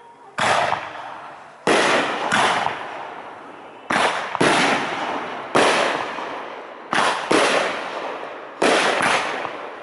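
Aerial firework shells bursting overhead: about ten loud booms, mostly in pairs half a second apart, each dying away in a long echo before the next.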